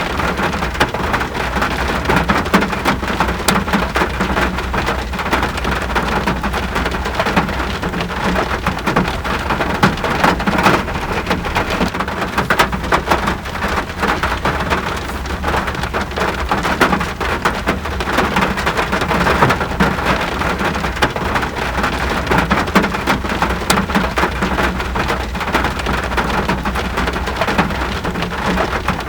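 Steady rain falling, a dense, even hiss thick with the clicks of individual drops striking a surface, over a constant low rumble.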